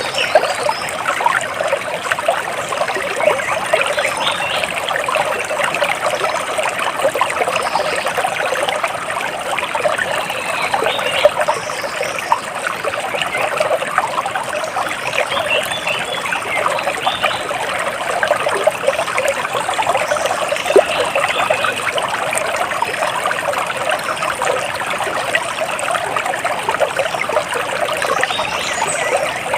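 Running water trickling and splashing steadily, as of a small stream.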